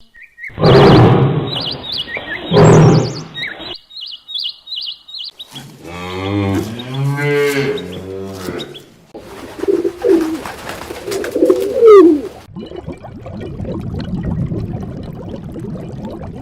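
Several different animal calls one after another, among them high bird chirps, a low moo and pigeon-like cooing.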